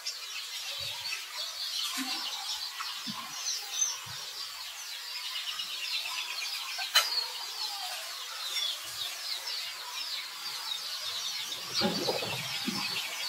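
Birds chirping, many quick short falling notes repeated over and over, with a single sharp click about seven seconds in and some lower calls near the end.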